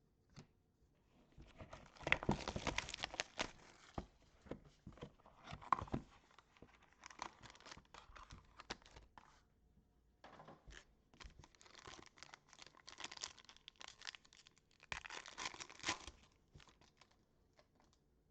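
Plastic wrapping on a trading-card box being torn open and crinkled by hand, in three spells of crackling tearing with sharp crinkly clicks.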